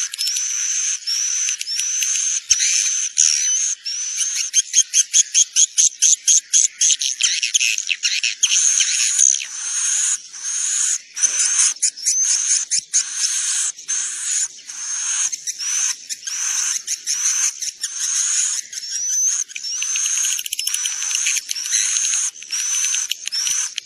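Edible-nest swiftlets calling: a continuous stream of high, upward-curving chirps, with a fast run of short clipped chirps between about four and eight seconds in. It is a swiftlet roosting call of the kind played to lure swiftlets into a nest house.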